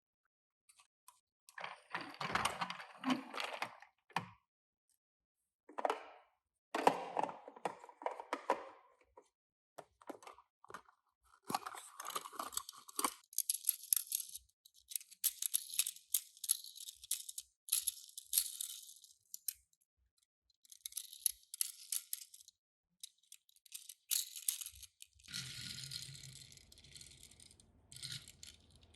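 Toy packaging being handled and opened: bursts of tearing and crinkling plastic and paper, brighter and hissier from about halfway through, with short silent gaps between them. A low steady hum comes in near the end.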